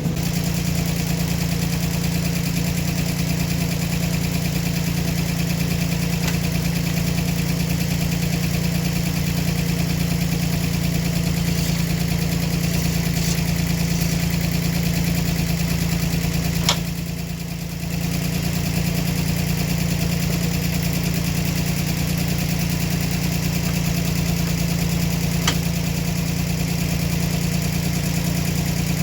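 Engine running at a steady idle, with a brief dip in level about two-thirds of the way through and a couple of sharp clicks or knocks.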